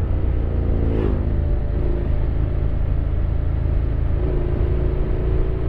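Honda X-ADV 750's parallel-twin engine running under way, a steady low rumble over road and wind noise. The engine note drops about a second in, then holds steady.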